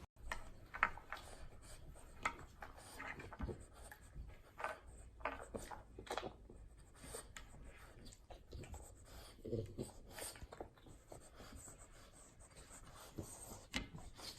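Faint, irregular scratching and rubbing with scattered soft clicks.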